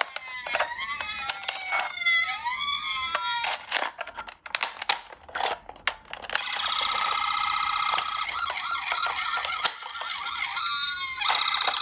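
Electronic sirens of toy ambulance minicars sounding together, several wailing tones gliding up and down over one another, with sharp clicks and clatters of the plastic cars. After a brief lull about halfway through, a steadier warbling siren tone takes over, dipping briefly near the end.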